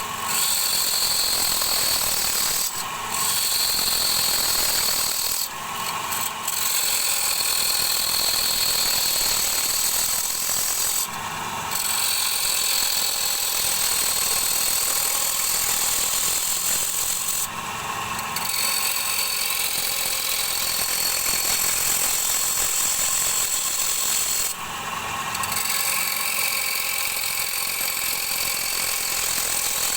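Turning tool cutting a bowl blank spinning on a wood lathe: a steady, high-pitched scraping rub. It drops out briefly about five times as the tool is lifted from the wood, leaving the lathe's running hum.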